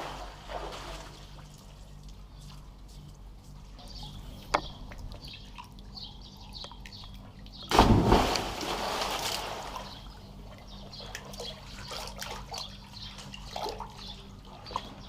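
Water sloshing and dripping with small scattered clicks, and a sudden loud splash about eight seconds in that dies away over about two seconds.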